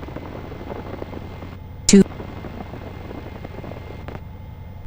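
Light aircraft's piston engine running steadily at low power, heard as a low hum through the cockpit intercom. A single short tonal blip comes about two seconds in.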